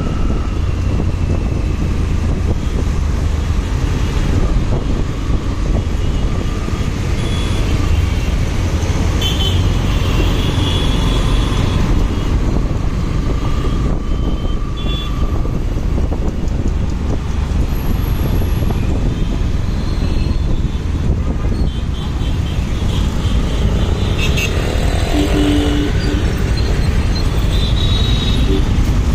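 Motorcycle riding in road traffic: a steady low rumble of engine and road and wind noise, with other traffic around.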